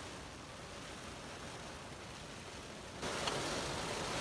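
Sleet, rain mixed with snow, falling on and around a car as a steady hiss that grows suddenly louder about three seconds in.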